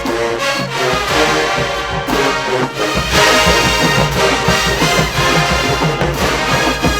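A large brass marching band plays loudly, with full brass and a steady beat from the bass drums.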